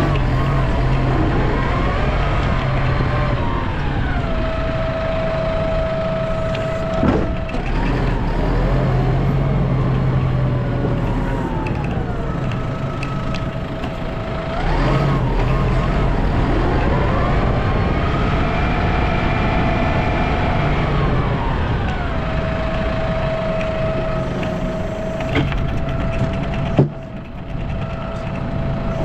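Snow-plowing vehicle's engine running under load, revving up and back down three times, with a steady whine in between. There are two sharp knocks, the louder one near the end.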